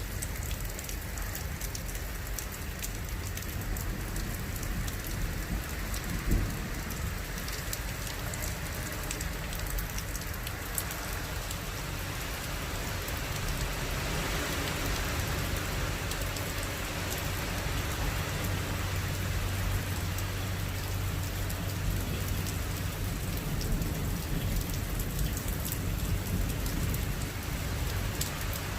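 Steady heavy rain falling, with a low rumble of thunder rising through the middle. One sharp knock comes about six seconds in.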